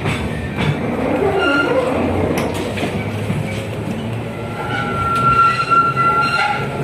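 A 71-619KT tram rolling along the track, heard from inside the car: steady running noise with clicks over rail joints. A high, steady whine comes in for the last couple of seconds.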